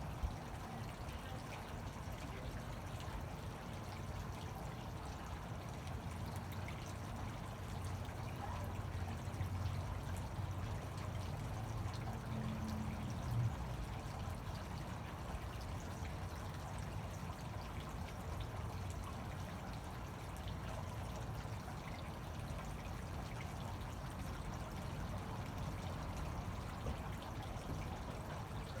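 Fountain water pouring and splashing steadily, with a low rumble swelling a little about eight to thirteen seconds in.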